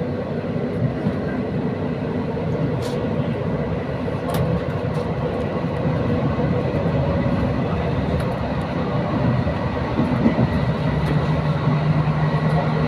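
Passenger train running along the line, heard from inside the car: a steady rumble of wheels on rail with a few faint clicks, growing slightly louder in the second half.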